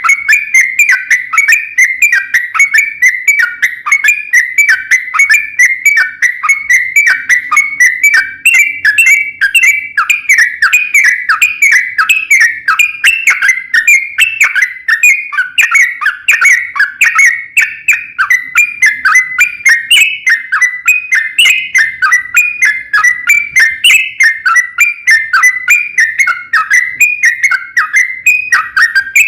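Yellow-vented bulbul singing a long, unbroken run of rapid chattering notes, about three to four a second.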